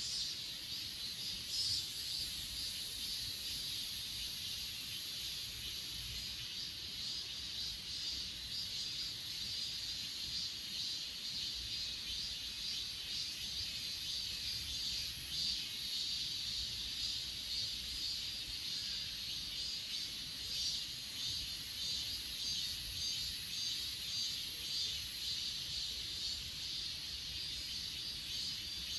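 A chorus of crickets and other grass insects trilling steadily, high-pitched and unbroken, with a fine pulsing shimmer.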